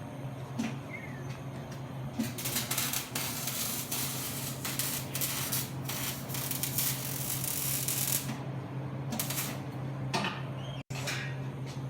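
Welding arc crackling in one long run of about six seconds, then in two shorter bursts near the end, over a steady low hum.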